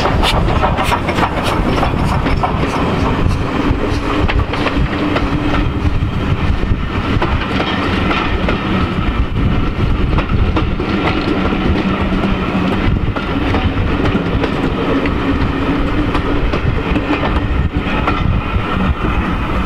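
Railway coaches rolling past. The wheels click over rail joints at first, then settle into a steady rumble on the track.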